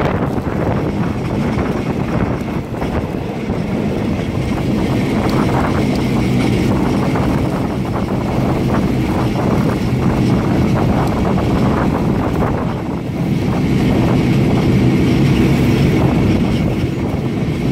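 Passenger train running along the line, heard at an open carriage window: a steady rumble of wheels on the rails with rushing air.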